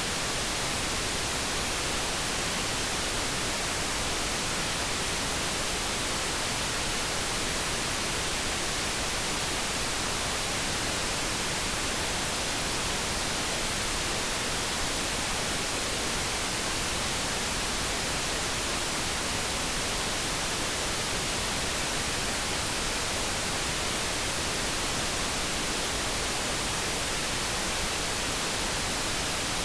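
Steady synthesized light brown noise: an even, unbroken hiss with no tones or changes.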